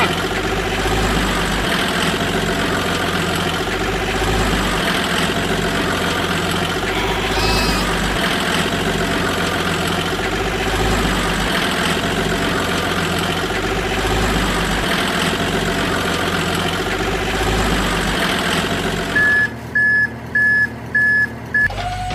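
Truck engine running steadily, then near the end four evenly spaced reversing beeps.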